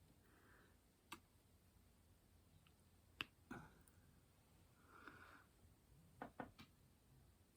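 Faint, scattered clicks and taps a second or more apart, with a quick cluster of three near the end: small resin diamond painting drills being picked up and pressed onto the canvas with the applicator pen.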